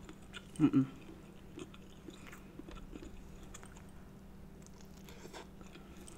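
Close-miked chewing of boiled red potato: soft wet mouth sounds and small clicks, with a brief voiced hum less than a second in.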